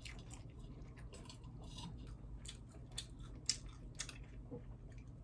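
A person chewing a mouthful of burger: faint, irregular wet mouth clicks and soft crunches, with one sharper click about three and a half seconds in.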